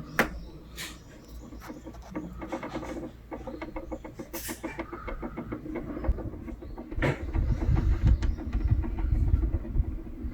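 Wall-mounted air conditioner's up-down louver blade moving, with a steady hum and a rapid run of clicks, then a louder low rumble from about 7 s in. The clicking is friction noise in the louver mechanism, which the owner traces to grease that has worn away.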